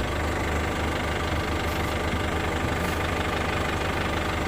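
Isuzu Traga pickup's diesel engine running steadily at low revs.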